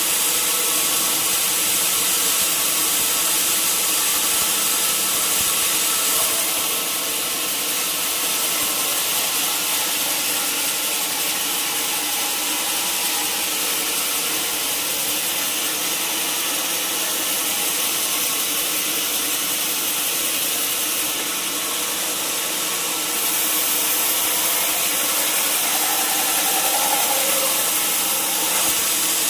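A sawmill saw running through timber: a steady machine hum with a continuous hiss of cutting. The sound drops slightly about six seconds in and picks up again around twenty-three seconds.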